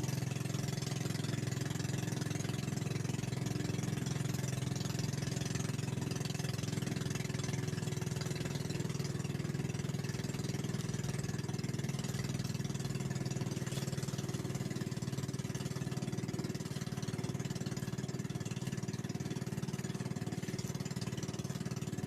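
Boat engine running steadily at a constant speed, a low even drone with no change in pitch.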